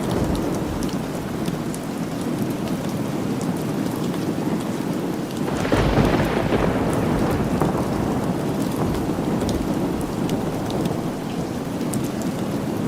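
Steady rain, with a roll of thunder that breaks in suddenly about six seconds in and rumbles away over the next few seconds.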